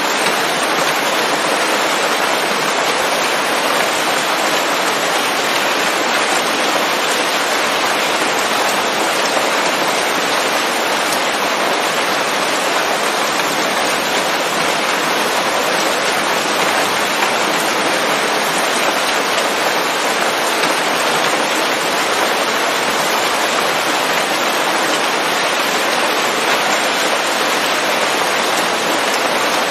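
Steady rain falling on leaves, a dense even patter without breaks or thunder.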